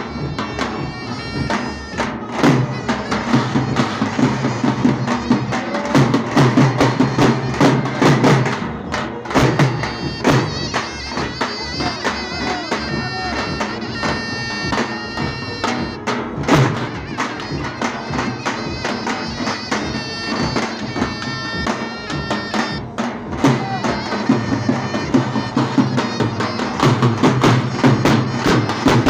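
Davul and zurna playing a Turkish folk dance tune: the zurna's shrill, reedy melody over the steady, heavy beat of the davul bass drum.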